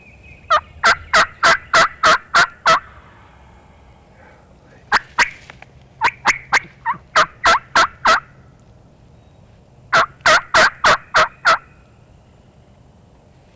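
Turkey yelping: three runs of loud, sharp, raspy notes at about three to four a second, with pauses between the runs.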